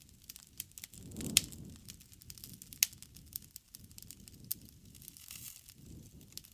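Campfire burning: a low, fluttering rumble of flames under irregular sharp crackles and pops, the loudest pops about a second in and just before three seconds.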